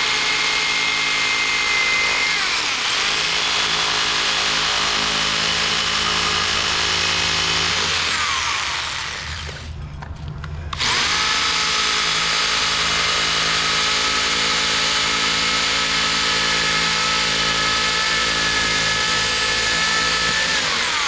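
Electric power tool motor running at high speed while cutting a pipe. It runs in two long stretches of about ten seconds each, with a short stop about ten seconds in. Its pitch sags and recovers about two seconds in, as the tool takes load.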